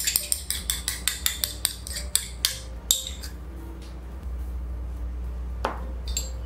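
Metal spoon scraping and clinking against a small porcelain dish and a ceramic bowl as thick soy paste is scraped out, a quick run of clicks for about three seconds, then a single sharp tap near the end.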